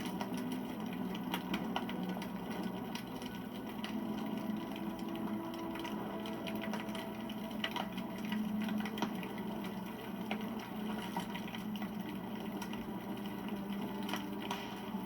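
Wood campfire burning: a steady low rush of flame with frequent small crackles and pops from the burning wood.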